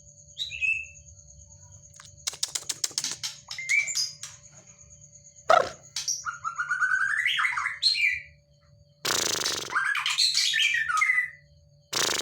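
White-rumped shama (murai batu) singing in varied whistled phrases that glide up and down. It mixes in a rapid run of clicking notes and two harsh rasping bursts, the agitated song of a shama that is worked up.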